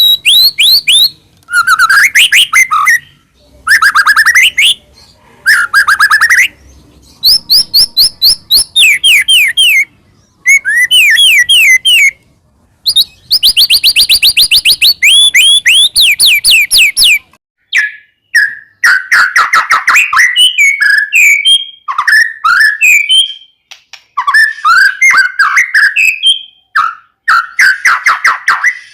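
White-rumped shama singing loudly. Its phrases are fast runs of the same sweeping note repeated many times, with short pauses between them. About two-thirds of the way in, the song breaks into a looser, more varied jumble of shorter notes.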